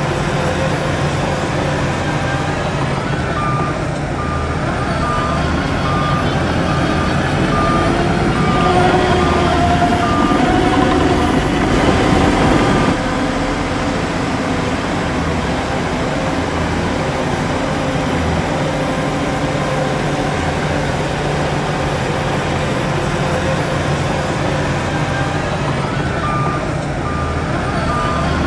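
Heavy diesel earthmoving machinery running: a steady low engine rumble of a bulldozer and dump trucks, louder for a few seconds in the middle. A reversing alarm beeps steadily in a regular rhythm for several seconds early on and starts again near the end, the sign of a machine backing up.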